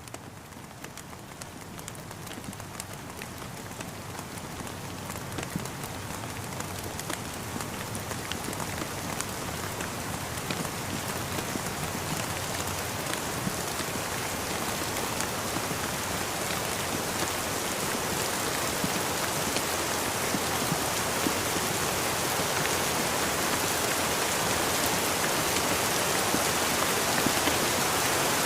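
Rain falling, a steady patter with many separate drop ticks, growing gradually louder through the whole stretch.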